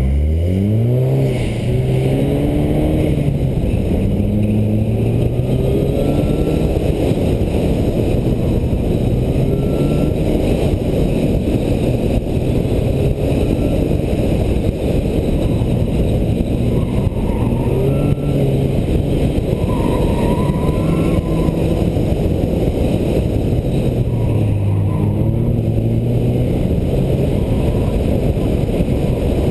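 VW GTI engine launching hard off the start and then revving up and down as the car accelerates and brakes through an autocross course, with steady road and wind noise underneath.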